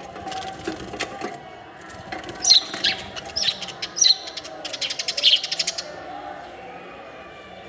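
Small birds chirping in short, sharp, high notes, mixed with quick clicks and fluttering; a fast run of clicks comes about five seconds in.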